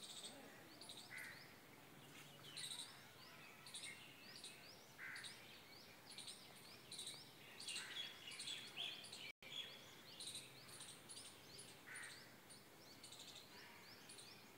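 Birds chirping outdoors: many short, high calls repeating over and over, faint against a light background hiss, with a momentary dropout about nine seconds in.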